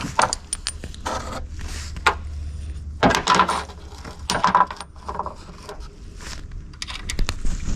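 Metal hand tools and fasteners clinking and scraping: short irregular clinks and rattles of sockets, bolts and studs being handled, with a few louder bursts about three and four and a half seconds in.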